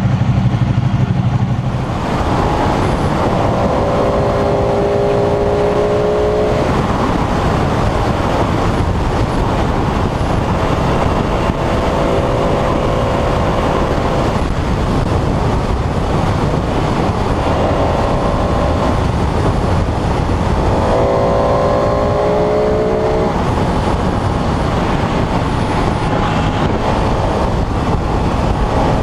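Sport motorcycle riding at speed, heavy wind rush on the microphone. The engine note surfaces repeatedly over it, its pitch shifting as the revs change. About two seconds in, a low steady engine hum gives way to the riding noise.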